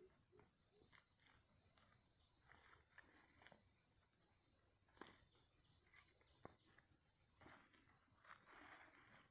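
Faint insect chorus, a steady high-pitched drone, with a few soft low calls in the first second and scattered light clicks and rustles.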